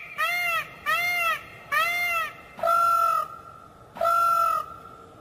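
White peacock (a white Indian peafowl) calling: three short calls that rise and fall in pitch, under a second apart, then two longer, flatter calls.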